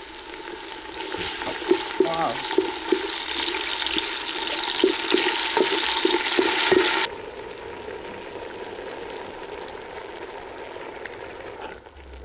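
Chopped tomatoes and onions sizzling in hot oil in an aluminium pot, with a wooden spoon stirring and knocking against the pot several times. The sizzle cuts off suddenly about seven seconds in, leaving a quieter steady hiss.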